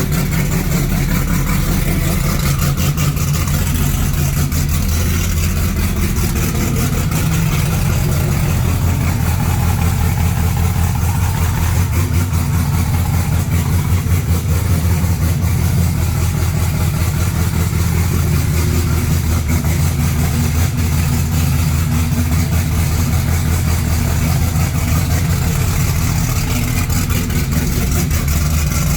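Whipple-supercharged 2018 Dodge Challenger SRT Demon's 6.2-litre HEMI V8 idling after a cold start, a loud, steady rumble through its modified exhaust.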